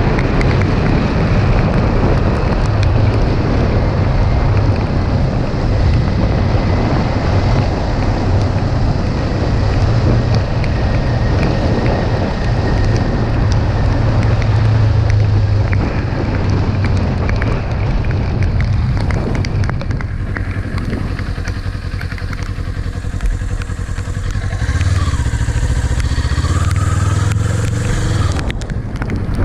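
Kawasaki Ninja 400's parallel-twin engine running while riding, under heavy wind and road noise on the microphone. About twenty seconds in the wind noise drops as the bike slows, and near the end the engine pitch rises as it accelerates.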